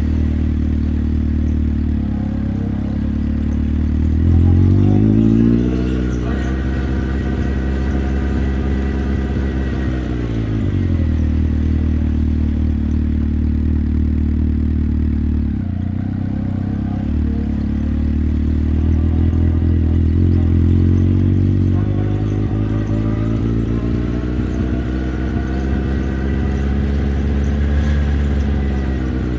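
Motorcycle engine under way, its revs climbing a few seconds in, dropping back about ten seconds in, holding steady for a long stretch, then climbing again and falling near the end.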